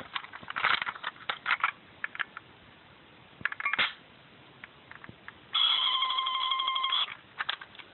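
Plastic clicks and snaps from a 1993 Power Rangers Power Morpher toy being handled and opened. About five and a half seconds in, its electronic sound effect plays from its small speaker for about a second and a half as a steady, buzzy, beeping tone, then a few more clicks follow.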